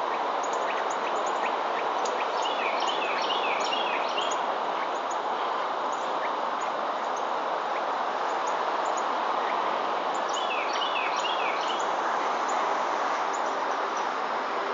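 Steady outdoor background hiss with a songbird singing a short run of descending chirped notes twice, about two seconds in and again about ten seconds in, and scattered faint high chirps.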